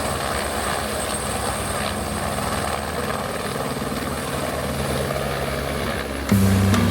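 Helicopter flying overhead with a steady rotor and engine drone. Background music comes in near the end.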